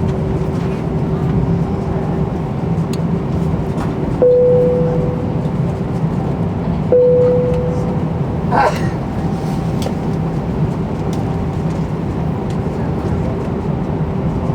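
Steady cabin noise inside an Airbus A319 on the ground before takeoff, a constant low rumble and hum. Two single chime tones sound about three seconds apart, around four and seven seconds in, each fading quickly.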